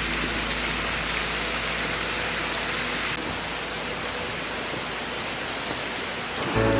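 Steady rushing of a mountain stream's flowing water, a shade less hissy from about three seconds in.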